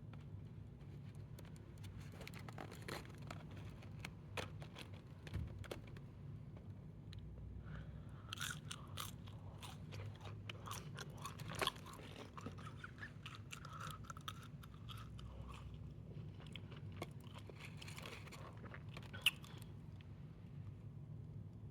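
Close-miked chewing of crispy breaded chicken fries, with many sharp crunches one after another.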